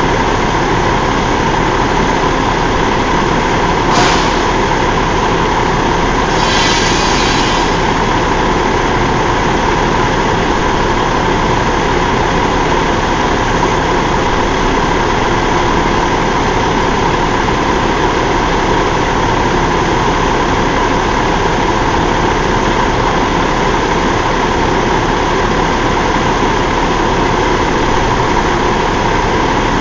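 Cummins ISX15 15-litre inline-six diesel engine running steadily at idle. A single click comes about four seconds in, and a short hiss a few seconds later.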